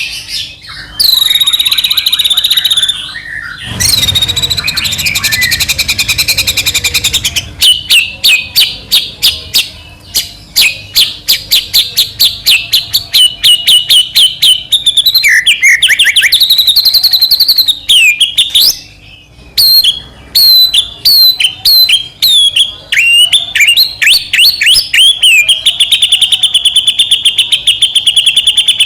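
White-rumped shama singing vigorously in long, rapid runs of high, repeated whistled and chattering notes and fast trills, with only brief pauses. A few seconds of rustling noise sit under the song about four seconds in.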